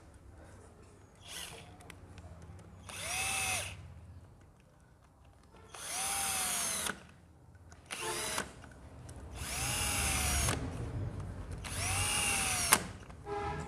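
Electric drill-driver run in about five short bursts, each spinning up and then winding down, driving bolts as a motorcycle clutch assembly is refitted.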